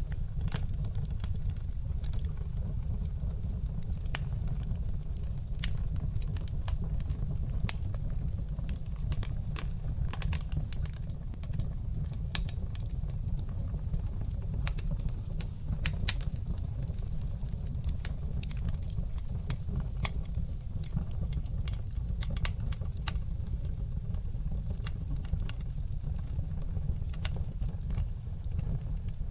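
Wood fire burning in a fireplace: a steady low rumble of flames with frequent, irregular crackles and sharp pops, the loudest pop about sixteen seconds in.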